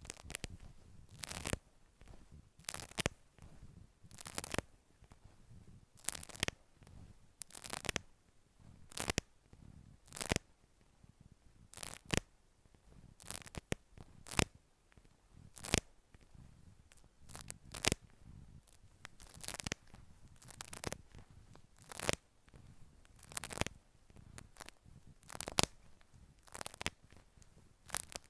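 Close-miked ASMR trigger sounds: short scratchy strokes repeating in an even rhythm, often in pairs, about one to two a second.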